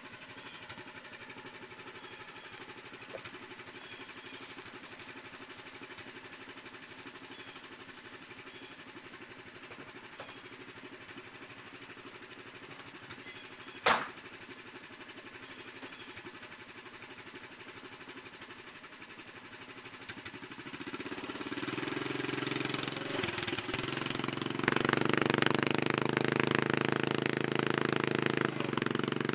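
Predator small engine on a mini truck running steadily at idle, with a single sharp knock about halfway through. Near the end it revs up and runs hard and loud, the engine working under load as the truck pulls a fallen dead tree.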